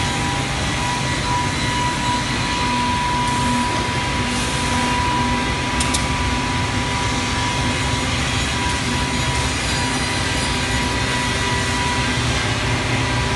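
Automatic computerised panel saw running: a steady machine rumble with a constant whine and a pulsing hum, and a single sharp click about six seconds in.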